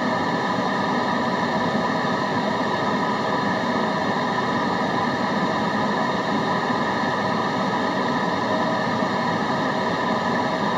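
Continuous white-noise track: an even, unchanging hiss weighted toward the lower-middle range, with no breaks.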